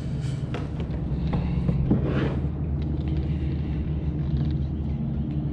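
Steady low mechanical hum with a few faint knocks and a short swish about two seconds in.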